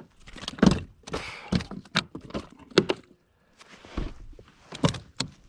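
A freshly caught bass flopping on a measuring board in a kayak, making an irregular run of hard thunks and knocks.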